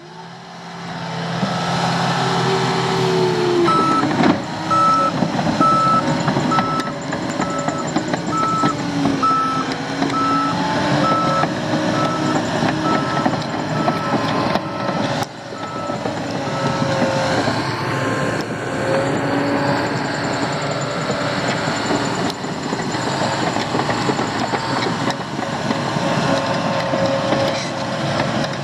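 A heavy construction vehicle's engine runs, its pitch rising and falling, while its reversing alarm beeps steadily, about one and a half beeps a second, from about four seconds in until about seventeen seconds in.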